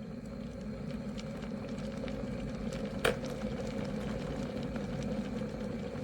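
SUSTEAS 1500 W stainless-steel electric kettle with its water at the boil, giving a steady rumbling, with one sharp click about three seconds in.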